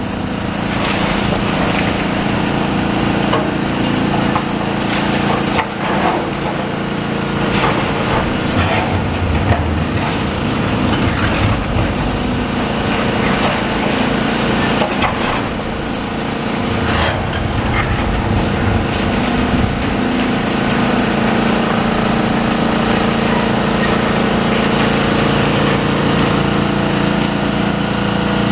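A demolition excavator's diesel engine and hydraulics run steadily while its crusher jaws work on a building, with many short cracks and knocks of breaking material and falling debris.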